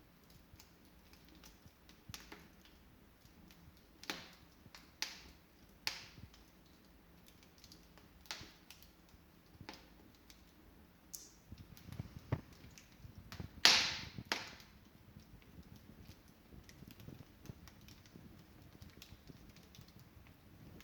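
Wood fire in an open fireplace crackling, with scattered irregular snaps and pops. The loudest pop comes about two-thirds of the way through, with a few dull knocks just before it.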